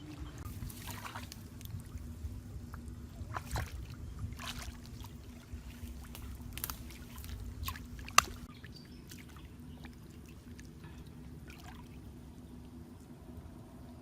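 Water splashing and trickling, with scattered short knocks and a single sharp click about eight seconds in, over a faint steady low hum.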